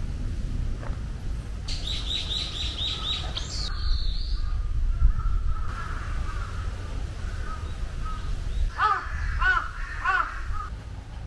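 Wild birds calling in the trees: a quick run of about seven high notes a couple of seconds in, and three short calls near the end, over a steady low rumble.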